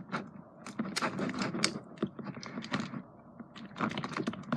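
Glue slime being stirred by hand as activator is mixed in, thickening and sticky: a quick, irregular run of small wet clicks and smacks that eases off for a moment about three seconds in.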